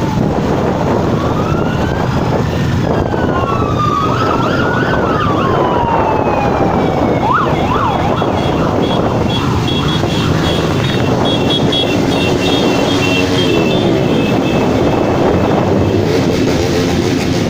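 A siren wailing, its pitch sliding up and down over the first half, over the steady din of many motorcycle engines. Later a steadier high electronic tone sounds for a few seconds.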